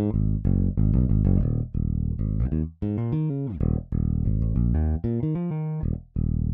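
Toontrack EZBass virtual electric bass playing a syncopated funk bass line of short notes, unaccompanied, with a slide down in pitch a little past the middle and a short break near the end.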